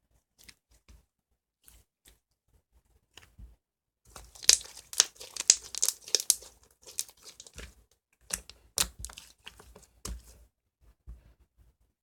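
Elmer's Glue-All slime being squeezed and stretched by hand, giving sticky crackling and popping clicks. A few faint clicks at first, then a dense run of crackling about four seconds in and another from about eight to ten seconds.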